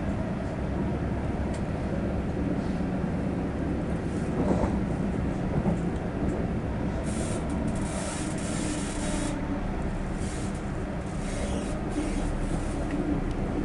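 Passenger train running, heard from inside the carriage: a steady low rumble of the wheels on the track, with a couple of knocks about four and a half and six seconds in, and stretches of hiss from about seven seconds on.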